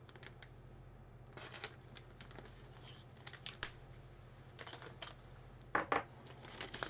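Packaging being opened by hand: scattered soft rustles, crinkles and small clicks, with a sharper, louder noise about six seconds in.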